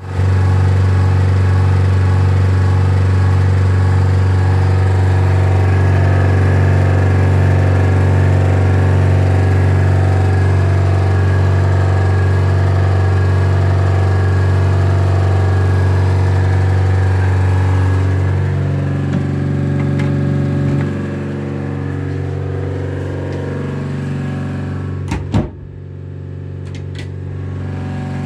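Broken Hitachi ventilation fan running with a loud, steady hum full of overtones: the abnormal noise of a failing fan. About two-thirds of the way through the hum drops in level and changes, and near the end there is a sharp knock.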